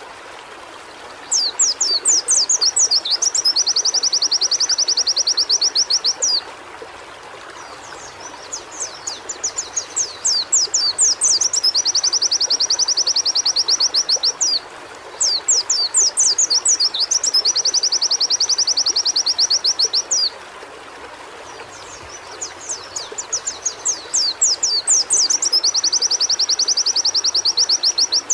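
Pleci (white-eye) singing in four bouts of about five seconds with short pauses between: each a rush of quick, high falling notes running into a fast, even trill. A faint steady running-water sound lies underneath.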